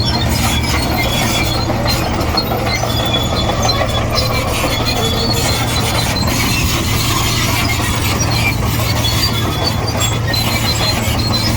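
Komatsu D58E crawler bulldozer's diesel engine running steadily, with its steel tracks squealing in short high squeaks as it moves.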